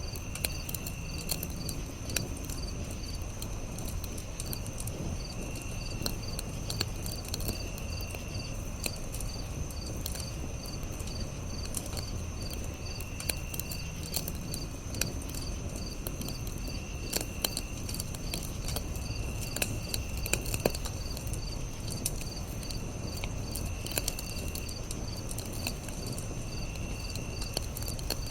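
Campfire crackling with scattered sharp pops over a low steady rumble, with crickets chirping in a fast, even pulse. Short high trills come back every few seconds.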